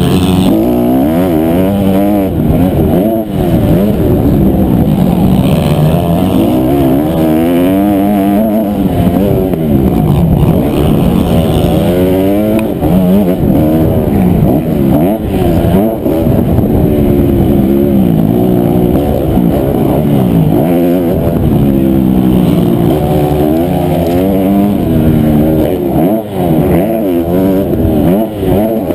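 Honda CRF250R's single-cylinder four-stroke engine revving hard and easing off over and over, its pitch climbing and dropping as the bike accelerates, shifts and brakes around a motocross track.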